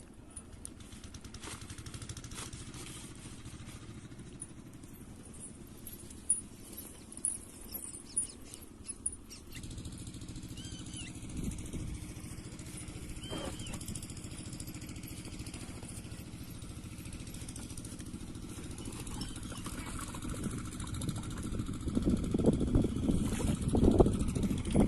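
Stationary diesel engine of an irrigation pump set running steadily with an even low hum. A few sharp clicks come early on, and there is louder, uneven rumbling near the end.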